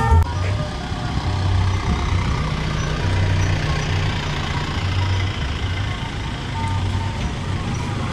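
A vehicle engine running steadily with a low, pulsing rumble and faint outdoor background noise, just after drum music cuts off at the start.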